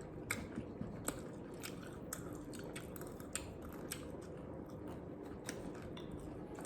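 Close-up chewing and biting of food, with scattered small sharp clicks and crunches over a faint steady background.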